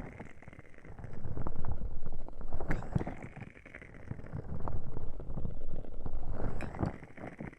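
Muffled rubbing and cupping over the ears of a 3Dio binaural microphone, swelling and fading about every three seconds, with a few small crackles from a wood-wick candle.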